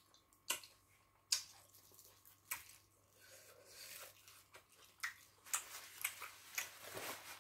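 Close-up mouth sounds of eating by hand: scattered short wet smacks and clicks of chewing, sparse at first and coming closer together in the last couple of seconds.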